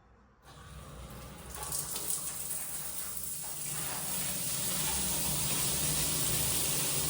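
Shower water turned on about half a second in, building over the next second or two into a steady, loud spray.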